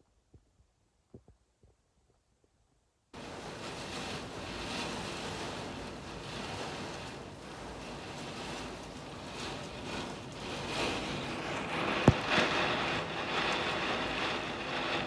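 Storm rain and wind, a steady rushing noise that starts abruptly about three seconds in and grows louder toward the end, with one sharp knock about twelve seconds in. Before it, near silence with a few faint low thumps.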